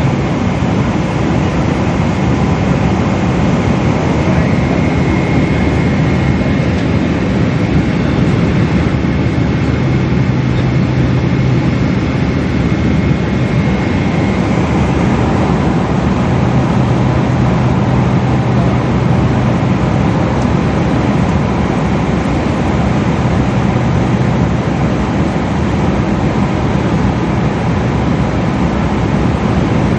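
Steady, loud jet engine and airflow noise heard inside a Boeing 777's passenger cabin, a constant rumble with a faint steady hum.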